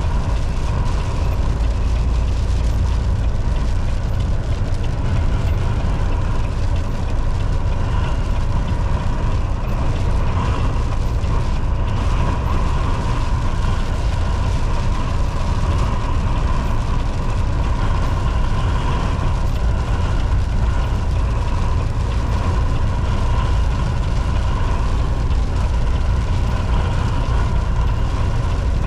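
Volvo VNL 760 semi truck cruising on the highway, heard from the cab: a steady, loud low rumble of engine and road noise with a faint, steady high whine over it.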